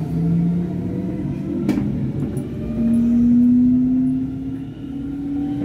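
Hamburg S-Bahn electric train running at speed, heard from inside the carriage: a steady rumble from the wheels and track with a motor hum that slowly rises in pitch in the second half. A single sharp click comes about a second and a half in.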